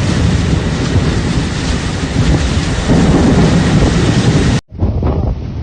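Storm audio: heavy rain and wind, a loud steady rush. About four and a half seconds in it cuts off abruptly, and another, thinner-sounding recording of wind and rain follows.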